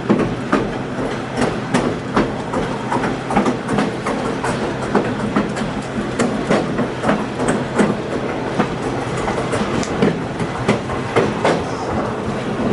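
Train wheels rolling over the track with repeated irregular clicks from rail joints over a steady rumble, heard aboard a train descending a steep grade.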